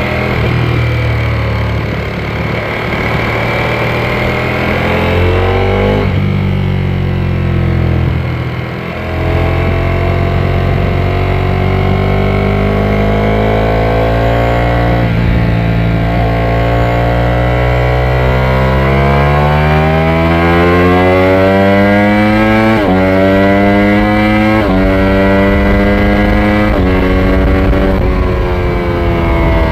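Ducati Panigale V4S's V4 engine under way: it eases off briefly, then pulls with its pitch climbing steadily, and near the end it accelerates through several quick upshifts, the pitch dropping sharply at each one.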